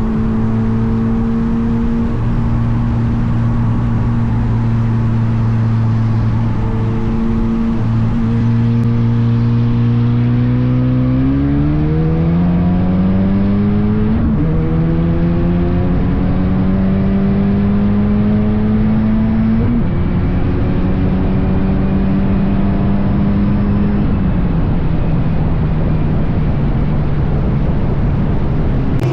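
Car engine running at a steady speed, then accelerating with its pitch rising from about eleven seconds in, and dropping in pitch twice later on, as at upshifts.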